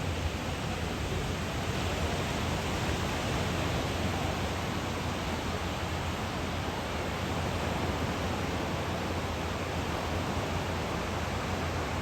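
Steady rushing noise of surf and wind, even in level throughout.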